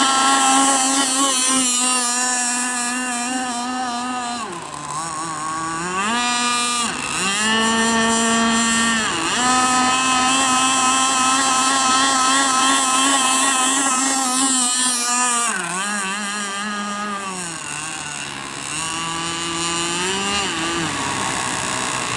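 Gas RC catamaran's stock RCMK two-stroke engine running hard on the water, a high steady whine whose pitch dips and climbs back several times as the throttle eases off and opens again, most deeply around 4 to 7 seconds in and again in a longer lower stretch after about 16 seconds.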